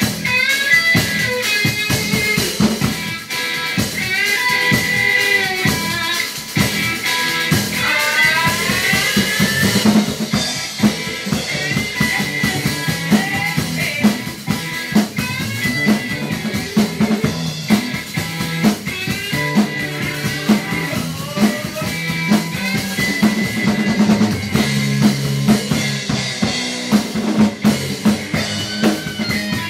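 Rock drum kit played along to a hard-rock recording with electric guitar: steady kick, snare and rimshot hits under the band. For the first ten seconds or so the guitar bends its notes up and down, then the drumming fills out over a steady riff.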